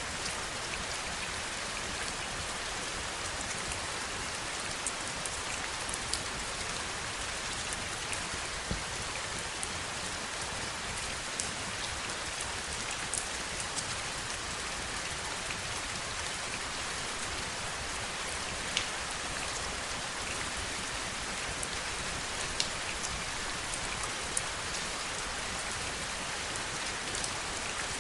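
Heavy rain falling steadily, with scattered sharp drops ticking close by now and then.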